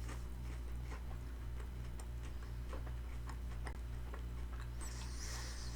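Close-up chewing of crispy fried chicken, with many small wet mouth clicks and a brief crisp crackle about five seconds in.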